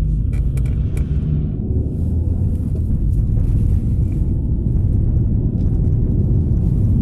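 Renault Duster cabin while pulling away: a steady low engine and road rumble, with a few faint short creaks from the driver's seat in the first second and once more around four seconds in.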